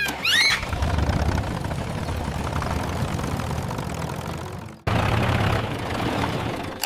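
Cartoon tractor engine sound effect running steadily with a low rumble. It breaks off sharply about two-thirds of the way through and picks up again straight away. A brief high squeal is heard right at the start.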